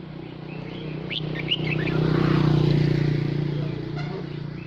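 A motor vehicle passes: a steady low engine hum swells to its loudest about halfway through and then fades. A few short, high bird chirps sound over it about a second in.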